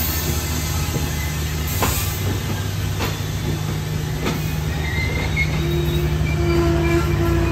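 A diesel-hauled train moving slowly over station track. Its engine runs with a steady low hum, the wheels clack over rail joints three times about a second apart, and a thin wheel squeal sets in about halfway through.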